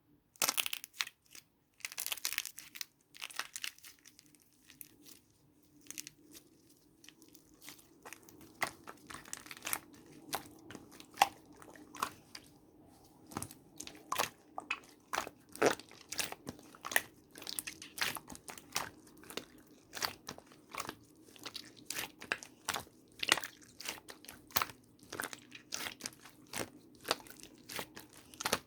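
Dried clay shaped like an avocado being crushed and broken apart by hand: a long run of irregular sharp cracks and crunches, some single snaps and some quick clusters.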